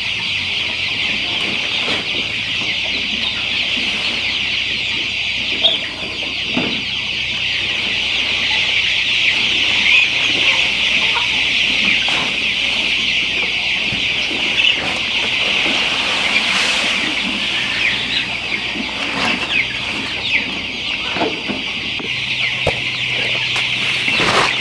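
A large flock of chickens clucking and calling all at once, a dense, unbroken chorus of many overlapping calls.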